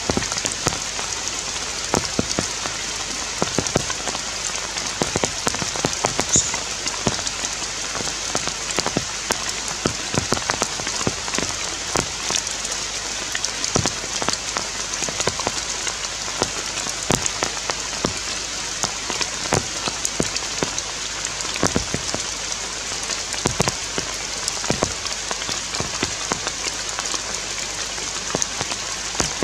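Steady rain falling on forest foliage: an even hiss broken by many sharp taps of individual drops.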